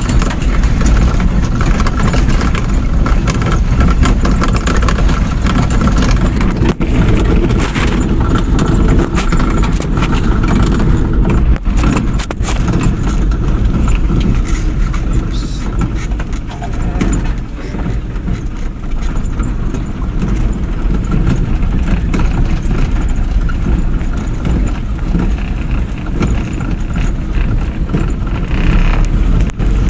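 Truck engine running with a steady low rumble, with frequent knocks and rattles throughout.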